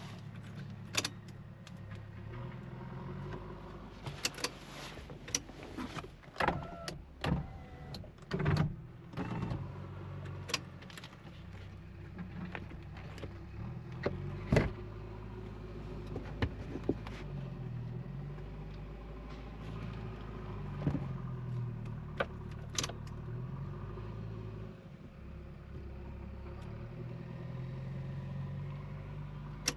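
Mahindra Bolero's diesel engine running under way, heard from inside the cabin, its pitch rising and falling with the throttle. Frequent sharp clicks and knocks sound over it, the loudest about eight and fourteen seconds in.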